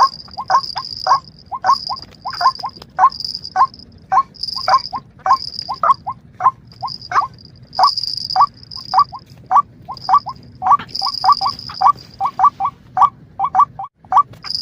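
Birds calling: a fast run of short rising chirps, two or three a second, with a high buzzing trill pulsing above them. The sound cuts out briefly near the end.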